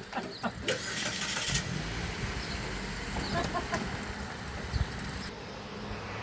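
A car engine running steadily at low revs, a low hum that comes in about a second and a half in after a short burst of hiss.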